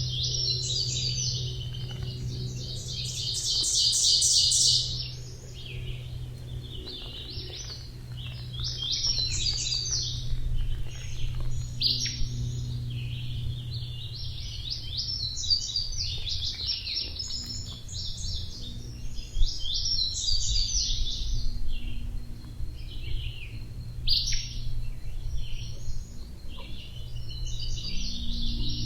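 Songbirds singing in a forest, short rapid chirping and trilling phrases one after another, with a longer, louder trill a few seconds in, over a low steady hum.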